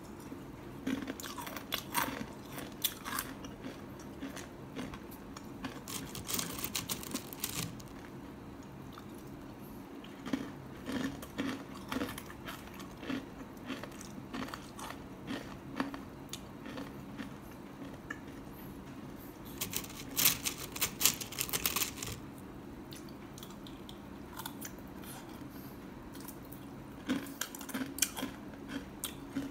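Someone chewing crunchy salted egg cornflakes: bouts of crisp crunching with pauses between them, loudest a little past the middle. A steady low hum runs underneath.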